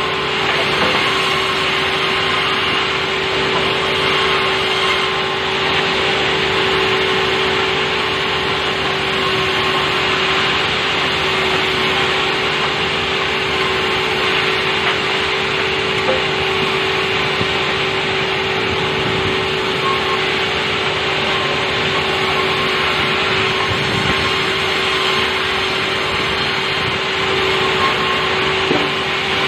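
Sawmill saw running continuously while sawing soft wood, a steady mechanical noise with a constant-pitched hum.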